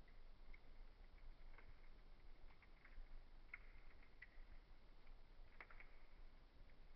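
Faint crackling of a wood fire in a fireplace: scattered small irregular pops and clicks over a low steady hum, with a few sharper pops about three and a half and five and a half seconds in.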